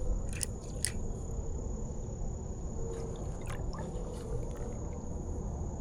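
Insects keeping up a steady high-pitched drone over the low rush of creek water, with a few faint clicks and small splashes.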